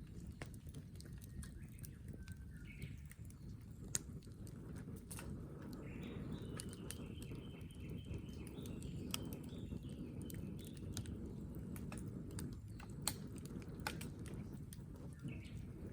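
Wood campfire burning, with irregular sharp crackles and pops over a low steady rumble. A faint high call comes and goes in the middle.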